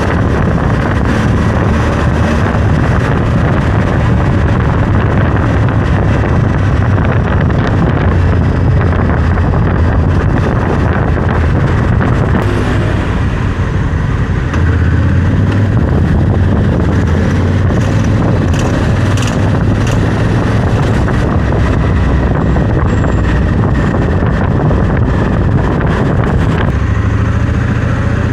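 Honda Africa Twin CRF1100L's parallel-twin engine running under way, with wind buffeting the microphone. A few short clicks or rattles come through near the middle, the kind of strange noise the owner suspects comes from the crash bars or skid plate.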